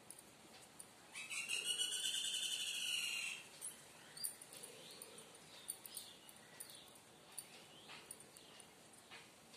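A bird calling: one loud, rapidly pulsing call lasting about two seconds, starting about a second in, followed by scattered faint short chirps.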